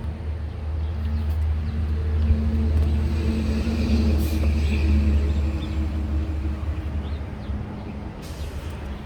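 Low engine rumble of a motor vehicle, growing louder over the first few seconds and then fading away.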